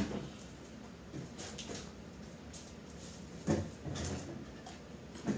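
Close-up eating sounds of beef and broccoli with rice: chewing and small wet mouth clicks, with one louder short mouth sound about three and a half seconds in.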